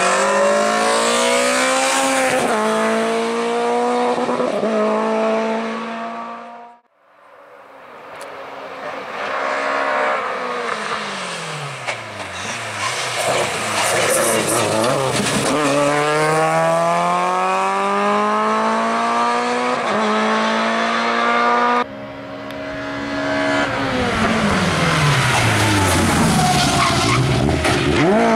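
Lada 2107 rally car's four-cylinder engine revving hard, climbing in pitch and dropping back at each gear change, then falling off twice as the car slows for a chicane before climbing again. There is a brief drop almost to silence about seven seconds in and an abrupt change near the 22-second mark where shots are cut together.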